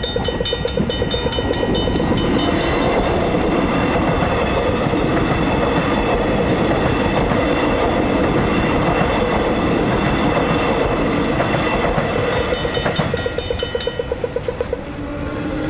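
Suburban electric train passing with a steady rush of wheel and running noise. A fast, even clicking comes in the first two seconds or so and again near the end.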